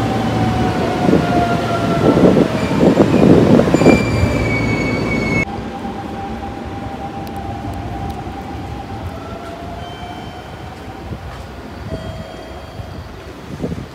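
Electric commuter train running past close by, its motors whining in slowly falling tones over loud wheel clatter on the rails. After an abrupt cut about five seconds in, a train's motor whine is heard more faintly from farther off as it runs along the track.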